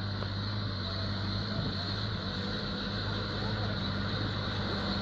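Truck engine running steadily with a low, even hum, unchanging in pitch.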